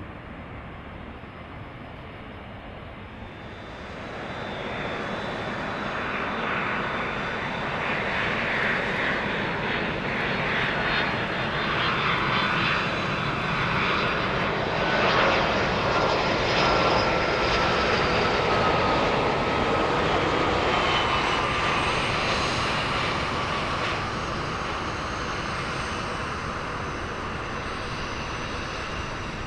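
Boeing C-32A (757-200) jet with Pratt & Whitney PW2000 turbofans flying past: the engine roar swells over several seconds, peaks near the middle and slowly fades, with whining tones that slide down in pitch as it goes by.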